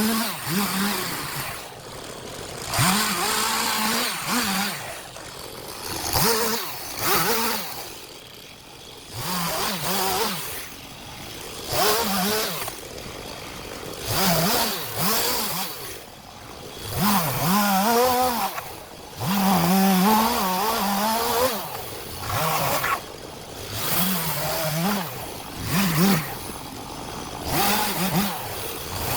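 STIHL MS 251 two-stroke chainsaw cutting firewood, revved in repeated bursts with its pitch bending up and down under load, dropping back between cuts.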